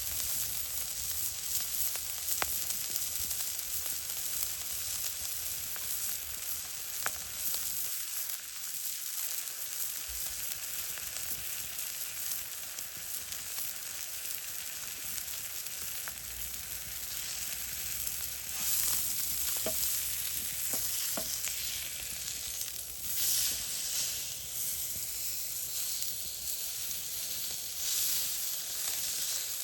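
Food sizzling over an open fire: a steady frying hiss with a few scattered pops.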